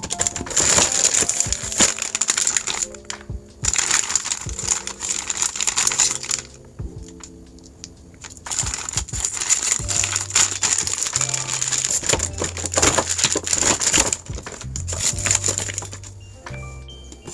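Plastic packaging crinkling and rustling as it is handled, in three long spells, over background music.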